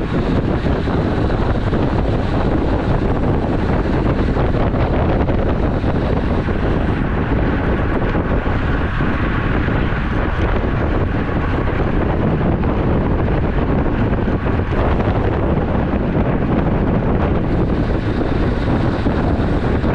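Steady wind buffeting the microphone while riding a road bike, with the rush of moving air and tyre and road noise beneath it.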